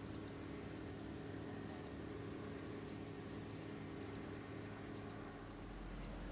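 Faint outdoor ambience: small birds giving short, high chirps, often in twos and threes, over a steady low hum.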